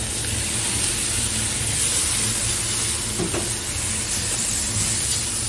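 Okra and tomato paste frying in a pot, a steady sizzle and hiss while a spatula stirs it through.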